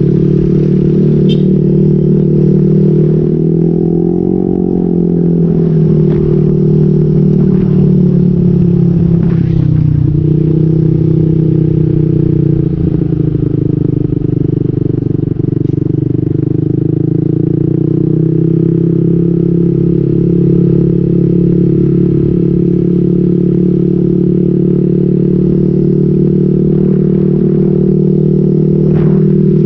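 Motorcycle engine running through an SC Project aftermarket exhaust with a modified elbow pipe: a loud, steady exhaust note whose pitch shifts briefly a couple of times, once near the start and again about ten seconds in.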